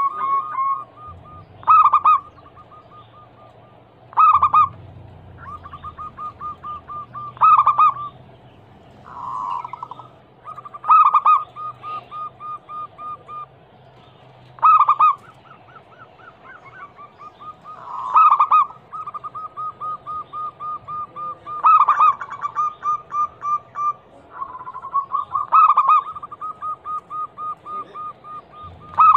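Zebra doves (perkutut) cooing. A loud coo comes about every three and a half seconds, with rapid runs of short, even notes at the same pitch between the coos.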